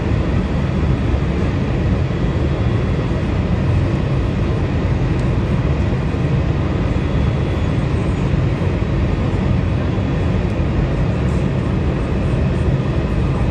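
Airliner jet engines running steadily: a heavy, even rumble with a faint high whine over it.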